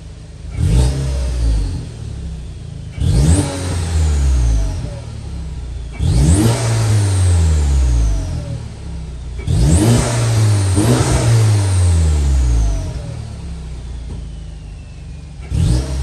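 2016 VW Passat 1.8 TSI turbocharged four-cylinder revving through a Flowmaster FlowFX straight-through muffler: about five quick throttle blips, each rising sharply and falling back to idle, with a thin high whistle falling away after each.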